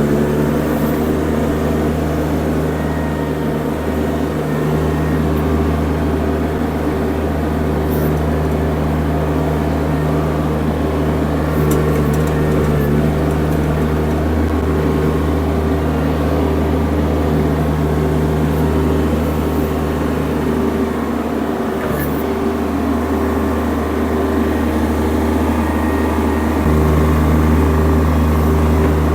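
Mini skid steer engine running steadily under load as the machine pushes stone, its note shifting a few times as the load changes.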